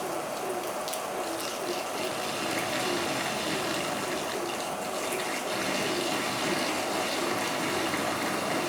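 Heavy rain falling steadily, a dense watery rush with scattered drops ticking against surfaces.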